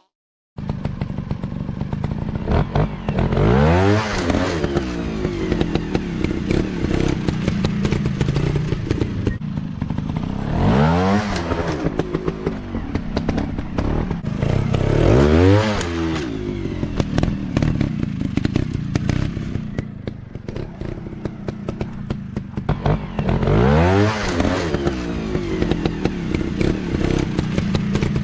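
Motocross dirt-bike engine running with an uneven, pulsing note, revving up and easing off four times: about three seconds in, near eleven, near fifteen, and near twenty-four seconds.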